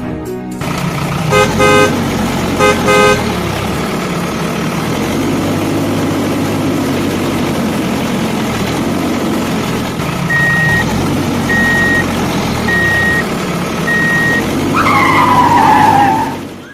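A truck engine runs steadily, with two short bursts of horn honking in the first few seconds. Later come four evenly spaced high beeps, and near the end a falling whine.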